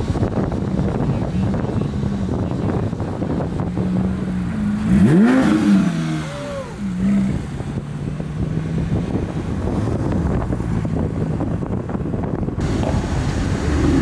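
A car engine running at low revs, with one sharp rev about five seconds in and a smaller blip a second later.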